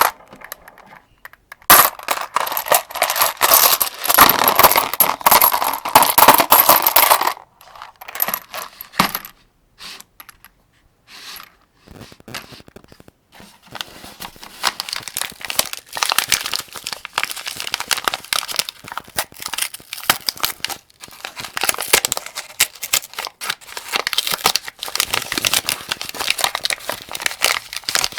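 Cartridges being loaded into an AK-47 75-round drum magazine, with metallic clicking and clinking of rounds against the drum. It starts with a dense run of clicks lasting several seconds, then a few scattered clicks with pauses, then a steady run of lighter clicks.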